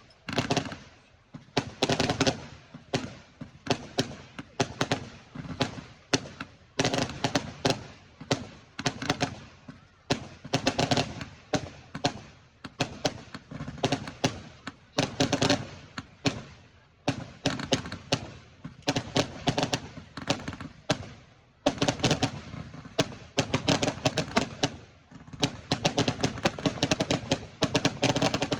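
Fireworks going off in rapid volleys of sharp bangs and crackles, a fresh burst every second or two.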